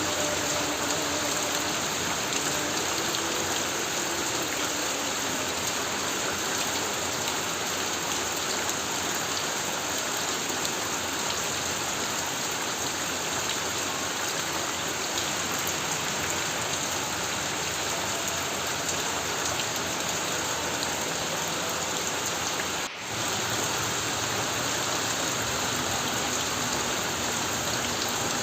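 Heavy rain pouring steadily on a corrugated tin roof, a dense, even hiss of drops. The sound dips out for a split second once, near the end.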